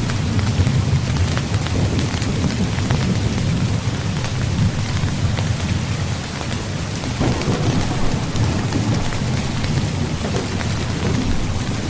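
Steady rain pattering on a tent, with many fine drop ticks over a continuous low rumble.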